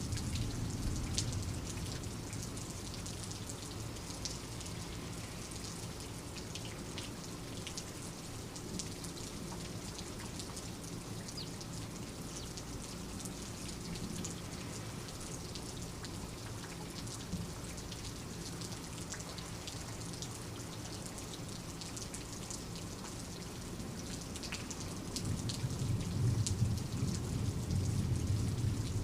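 Steady rain, with many separate drops ticking sharply close by. A low distant thunder rumble fades in the first couple of seconds and swells again near the end.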